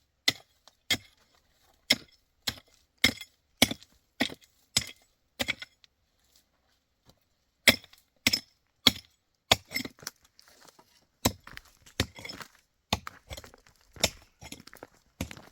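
Repeated sharp blows of a tool striking wood, about one every half second or so, with a pause of about two seconds partway through, then more blows mixed with smaller, irregular knocks.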